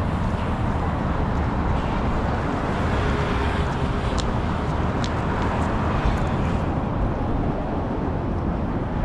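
Steady city street traffic noise with a low rumble, and two brief high ticks about four and five seconds in.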